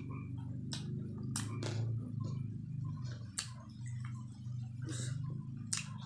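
A person chewing chicken lollipop meat close to the microphone, with several short, sharp wet mouth clicks and smacks at irregular intervals, over a steady low hum.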